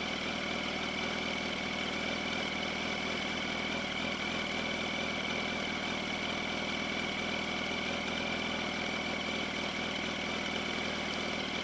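Yamaha R1 sport bike's inline-four engine idling steadily.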